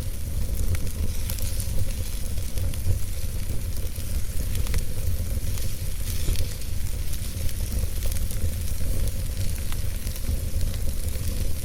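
Campfire burning, with frequent small crackles and pops over a steady hiss, and a steady low wind rumble underneath.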